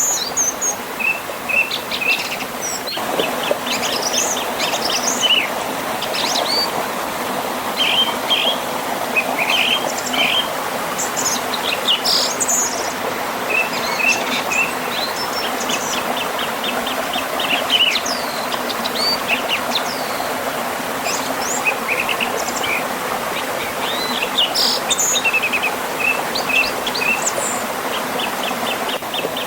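Several songbirds chirping and trilling over the steady rush of a river and small waterfall. The water grows a little louder about three seconds in.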